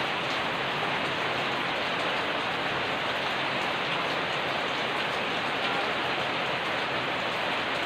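Steady heavy rain falling on a surface, an even hiss of drops with no let-up.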